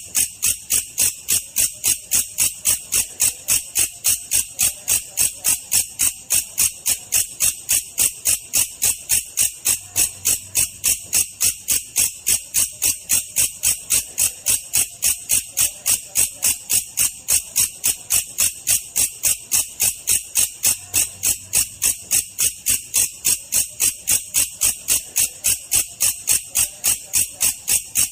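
Belalang kecek katydid calling in the slowed 'versi lambat' recording: an even, unbroken train of short, bright chirps, about three a second.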